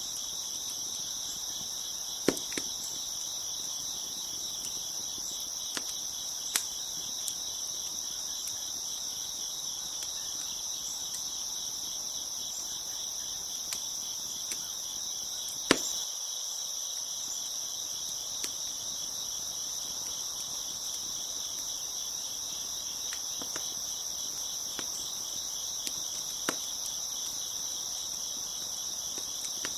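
Steady chorus of crickets chirping, with scattered sharp pops and crackles from a wood fire; the loudest pops come about two seconds in and about halfway through.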